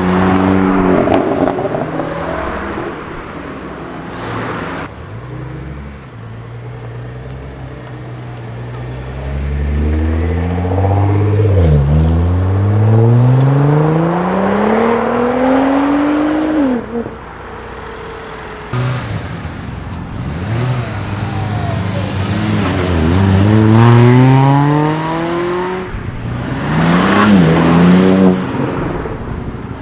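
Cars accelerating hard one after another, each engine's pitch climbing steeply through the revs with drops at the gear changes before it fades away.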